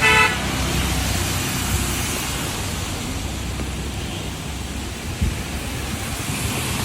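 A short vehicle horn honk right at the start, then the steady hiss and rumble of street traffic, with a single low thump about five seconds in.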